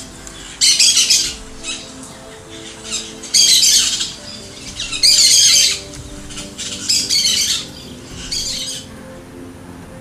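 A bird squawking harshly five times, each call lasting under a second, over soft sustained music.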